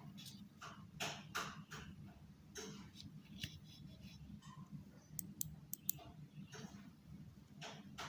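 Small plastic parts of a wireless mouse being handled, with scattered clicks and light rustling and a quick run of sharp ticks about five seconds in, over a low steady hum.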